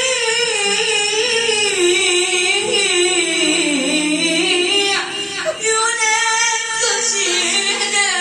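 Solo voice singing an Arabic devotional elegy for Imam Hussein, drawing out long ornamented notes that waver and slide in pitch. A low steady backing tone sounds beneath it through the first half.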